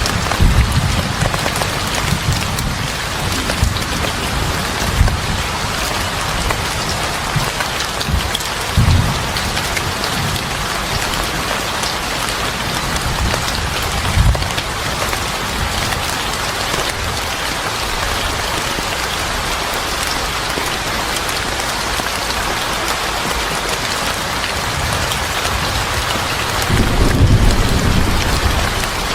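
Steady heavy rain falling on a surface, with several short low rumbles about 9 and 14 seconds in and a longer rumble near the end.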